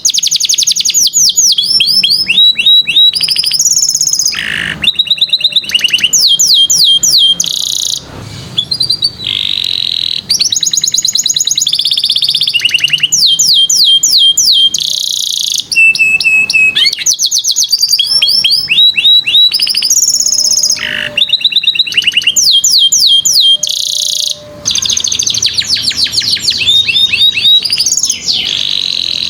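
Domestic canary singing a long, loud, unbroken song of fast trills and rolls, each run of rapidly repeated high notes giving way to the next every second or two, with only brief pauses.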